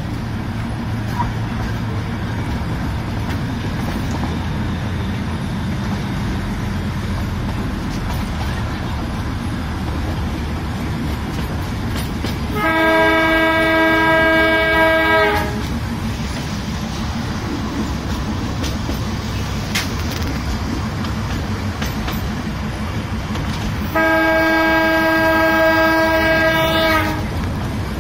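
Darjeeling Himalayan Railway narrow-gauge toy train running along the track with a steady rumble and rattle of wheels, heard from the coach window. The train's horn sounds two long blasts of about three seconds each, one about halfway through and one near the end.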